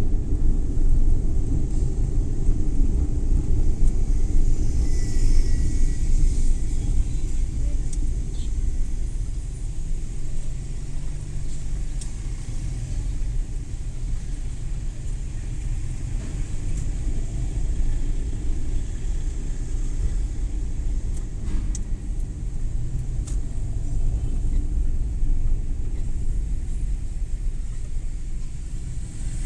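Suzuki Every Wagon (DA64W) kei van with its 660 cc three-cylinder engine, driving: a steady low rumble of engine and road noise that eases a little about a third of the way in.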